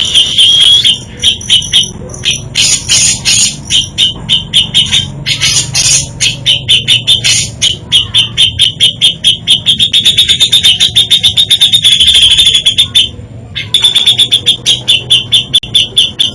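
Cucak jenggot (grey-cheeked bulbul) singing a loud, fast chattering series of rapidly repeated high notes, six to eight a second, in long runs with brief breaks about a second in, in the middle and near the end.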